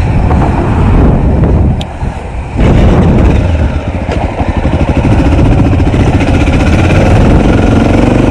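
Honda XR650L's single-cylinder four-stroke engine revving hard under load as the bike pushes through soft, fine silt. The throttle eases off briefly about two seconds in, then opens up again and holds.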